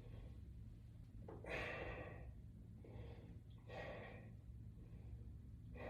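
Faint breathing of a man exercising with resistance bands: two main exhales about two seconds apart, with a weaker breath between them.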